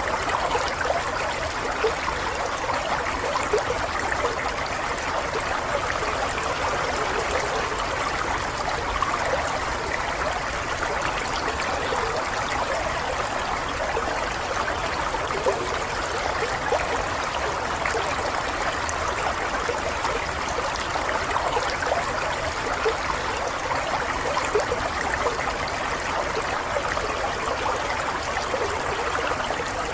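Flowing water trickling steadily like a small stream, with no change in level.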